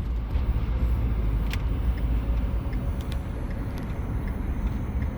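Car cabin noise while driving: a steady low rumble of engine and road, with a few faint ticks.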